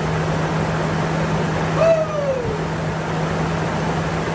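Freshly rebuilt Toyota 3.4 L V6 (5VZ-FE) running steadily just after its first start on new cylinder heads. A short falling cry rises over it about two seconds in.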